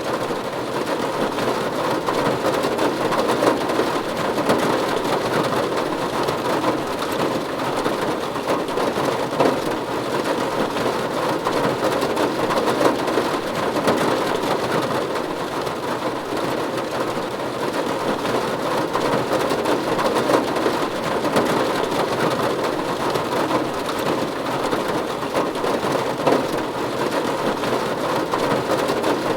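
Steady rain falling on a roof: a dense, even patter of drops that holds at a constant level throughout.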